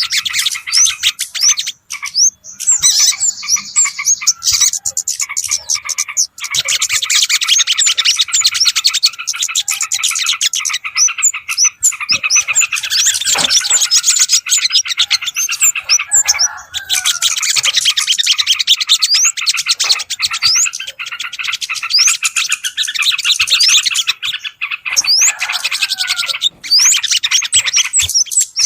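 Bird-lure recording of small songbirds: dense, rapid chirping and twittering from several birds at once, with short breaks every few seconds.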